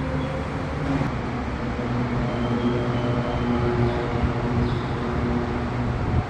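A train running near the platform: a steady mechanical hum with several held pitched tones over a noisy rumble, which stops abruptly near the end.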